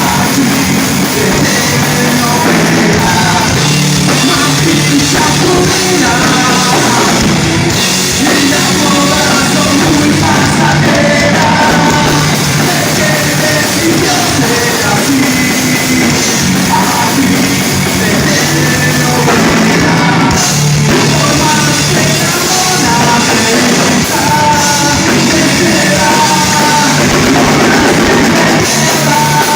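Live rock band playing with a singer, loud and steady throughout.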